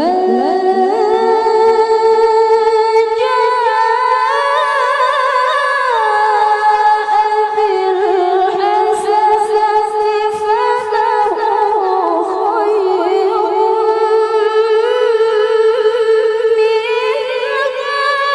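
A woman's high, clear voice reciting the Quran in melodic tilawah style, holding one long unbroken phrase with ornamented pitch steps. It starts suddenly after a breath pause.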